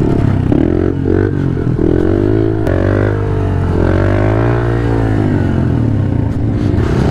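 Pit bike engine running at low revs, its pitch rising and falling gently with small changes of throttle.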